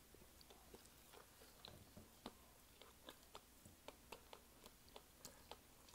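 Faint chewing of a potsticker: a string of soft, irregular mouth clicks.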